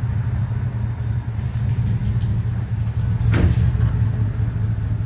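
A motor vehicle's engine running at a steady low rumble, with one brief sharp sound cutting in about three seconds in.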